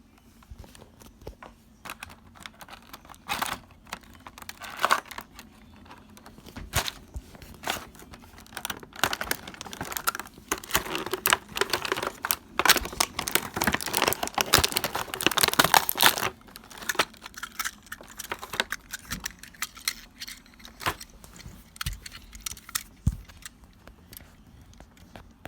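Toy packaging being opened by hand: crinkling plastic and tearing, with scattered clicks and taps of plastic pieces. It is busiest in a long stretch of dense rustling in the middle.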